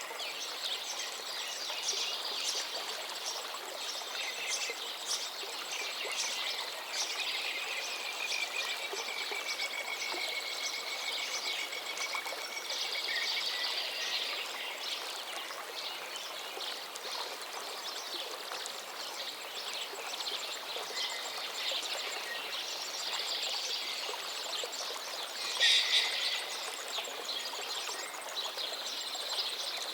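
River water flowing steadily under a chorus of songbirds, with many chirps and trills over the rush of the water and one louder burst of bird calls near the end.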